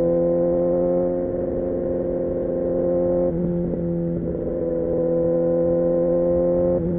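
Kawasaki Ninja ZX6R inline-four engine running at a steady, fairly high rpm while cruising, its note holding one pitch, briefly unsettled a few times by small throttle changes.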